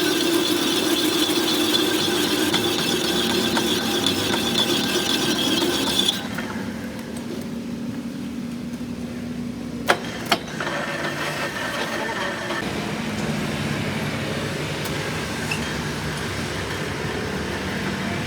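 Steady machine noise that stops abruptly about six seconds in, leaving a quieter hum, then two sharp clicks near the middle and steady machine noise again after them.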